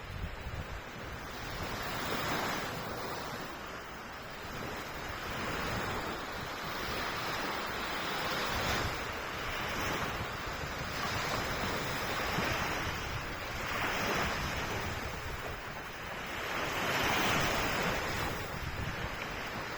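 Waves washing in one after another, each swelling into a hiss and falling back every couple of seconds, with wind buffeting the microphone underneath.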